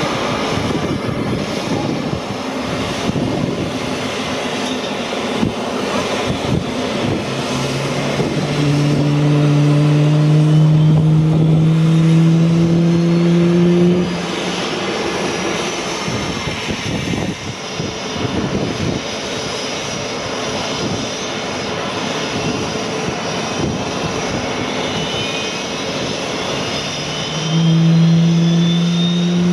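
CF-18B Hornet's twin F404 jet engines running on the ground, a steady rush of jet noise. Twice a low drone rises slowly in pitch, the first time about a third of the way in, breaking off suddenly, and again near the end.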